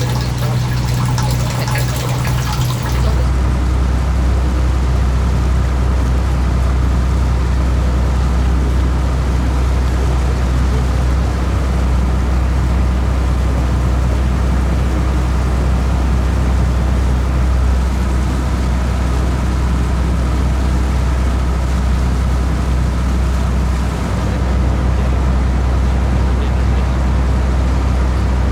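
A steady low rumble with an even hiss over it. For the first three seconds a brighter, hissier sound takes its place.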